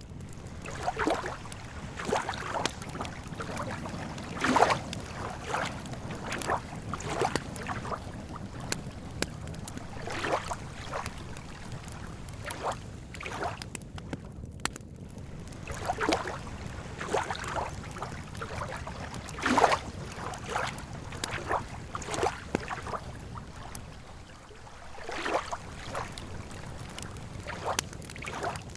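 Small lake waves lapping irregularly at the shore, a soft splash every second or so over a steady low rumble.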